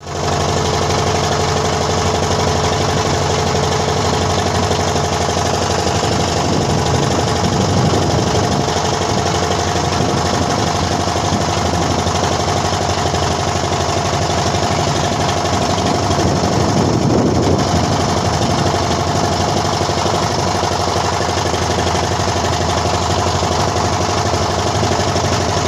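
A vehicle engine running steadily with a fast, even pulse, swelling slightly twice.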